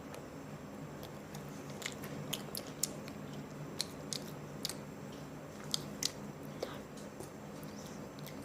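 Close-up eating of hot and spicy chicken: biting and chewing, with irregular sharp wet clicks and crunches from the mouth, over a steady low background hum.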